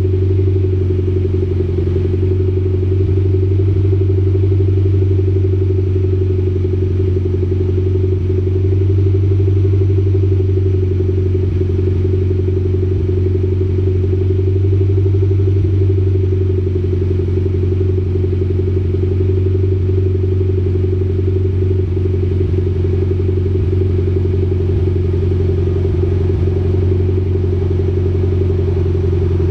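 Mitsubishi Lancer Evolution X's turbocharged 2.0-litre four-cylinder idling steadily after a cold start through an HKS Hi-Power dual cat-back exhaust, a deep even exhaust note with no revving.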